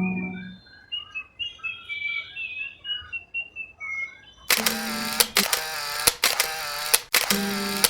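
A small bird chirping and warbling in short high notes for about four seconds, while a guitar note fades out at the start. About four and a half seconds in, a loud buzzing, bell-like sound starts in short pulses, with plucked guitar notes under it.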